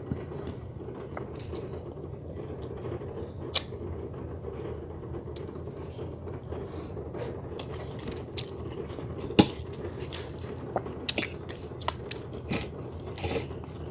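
A person chewing and biting into a meal of fried-down chicken legs and collard greens, with scattered sharp, crunchy clicks every second or two, the loudest about nine seconds in, over a steady low hum.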